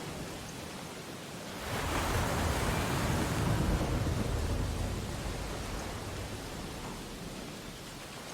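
Ocean surf on a beach: a wave breaks and rushes up about two seconds in, then slowly washes back and fades.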